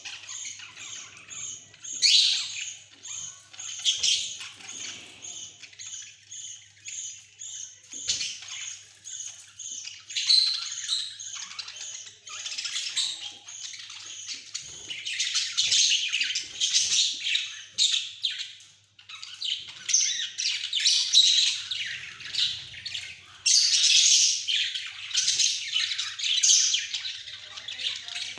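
Pet budgerigars chattering and squawking without a break: a fast run of short repeated chirps in the first several seconds, then denser, louder chatter.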